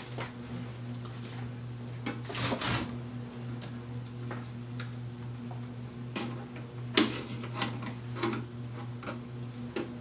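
Scattered sharp clicks and a brief scrape of small tools working on an old wire recorder's chassis while its bad filter capacitors are removed, over a steady low electrical hum.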